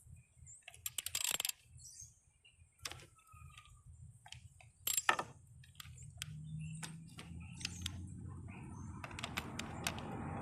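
Scattered metallic clicks and clinks of a 7mm socket and ratchet being worked on a sensor's mounting bolt in a car's engine bay, the sharpest click about five seconds in, with a low scraping noise building over the last few seconds.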